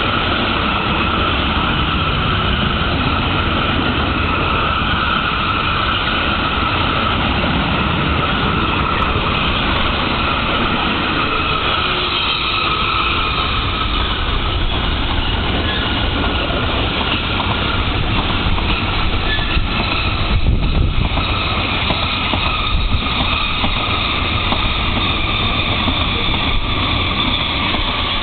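Electric multiple-unit trains passing each other: a steady rumble with a humming tone over it, and a few knocks about twenty seconds in.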